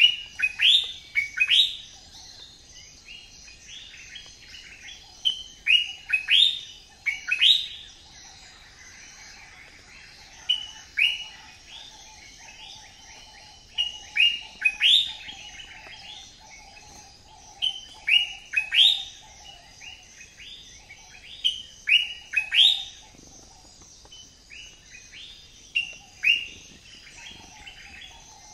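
Birds chirping: many short rising chirps, coming in quick clusters every second or two.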